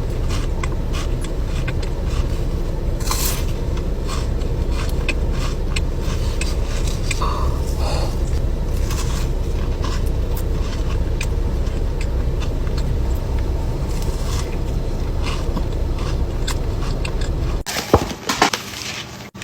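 Steady low rumble of road noise, as inside a moving car, under scattered scrapes and clicks from handling a cardboard cookie box. It cuts off abruptly near the end.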